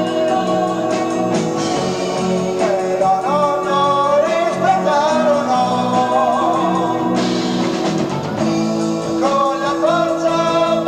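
Italian progressive rock band playing live, on an amateur tape recording: long held keyboard chords under a wavering lead melody line.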